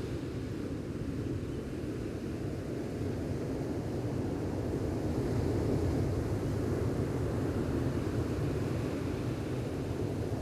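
Gentle ocean waves washing on the shore: a steady low rumbling wash that swells a little about halfway through.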